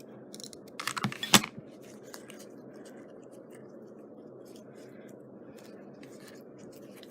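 Crafting materials handled on a tabletop: a brief rustle and a sharp knock about a second in, then scattered light clicks over a steady low hum.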